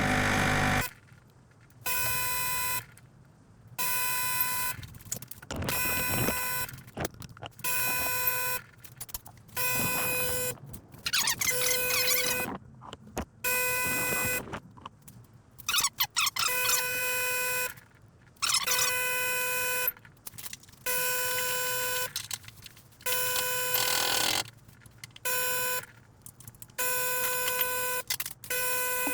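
Sage Bambino Plus espresso machine's pump buzzing in short pulses, on for about a second and off again, over and over, as clean water is pushed through during the rinse stage of the descale cycle.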